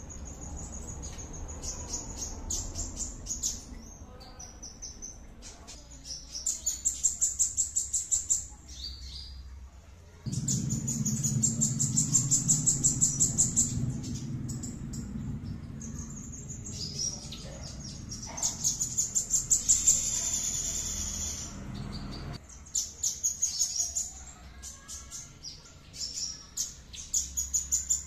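A small songbird singing fast, varied phrases of rapid repeated high chirps and trills, with short pauses between phrases. A low hum sits under the song through the middle part, starting and stopping abruptly.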